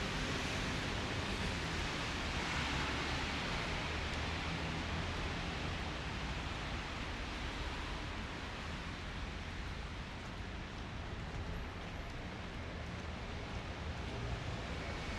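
Steady hiss of rain and wet-street ambience, with a low rumble underneath.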